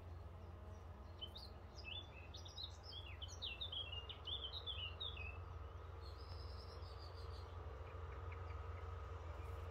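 A songbird singing a rapid phrase of quick chirping notes for about four seconds, then a short higher trill, over a steady low background rumble.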